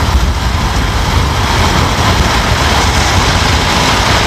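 A car driving, heard from inside: steady low road and engine noise with a hiss of wind and tyres.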